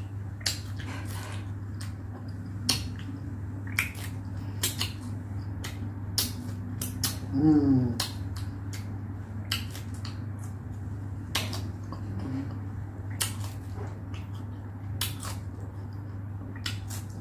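Close-miked chewing of fresh pineapple: wet, crunchy mouth clicks at an irregular pace over a steady low hum, with a brief hummed vocal sound about seven and a half seconds in.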